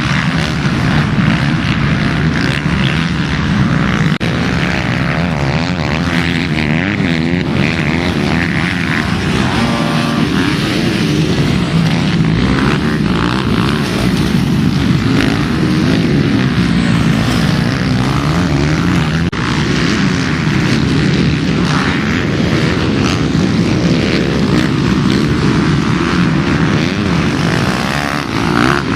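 Several motocross bikes racing, their engines revving over one another and rising and falling in pitch as the riders open and close the throttle.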